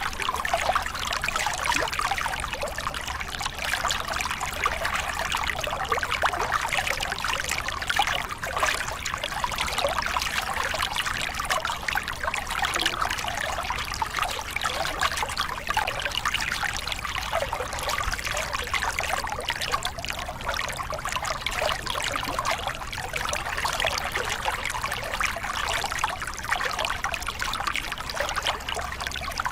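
Small cascade on a forest river: water splashing and trickling over rocks with a steady, continuous rushing.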